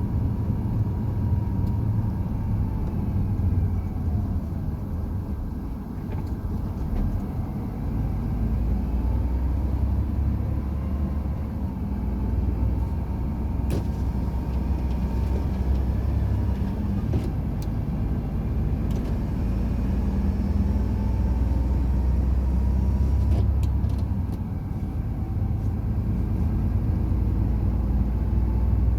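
Truck driving on the road: a steady low engine and road rumble with a faint wavering whine, and a few brief ticks about halfway and again about four-fifths of the way through.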